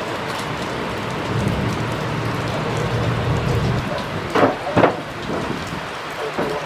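Steady hiss of heavy rain falling on the ground and the microphone, with a low rumble swelling in the middle and two short, sharp sounds about four and a half seconds in.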